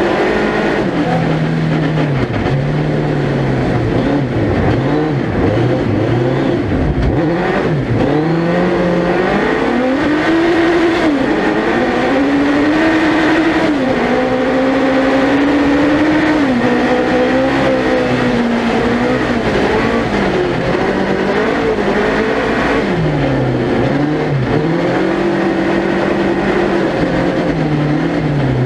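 Suzuki Hayabusa 1300cc inline-four motorcycle engine in a small four-wheel-drive race car, heard from on board, revving up and dropping back over and over as the car is driven hard around the track. The pitch climbs and falls every second or two at the start and end, with longer high-revving pulls in the middle.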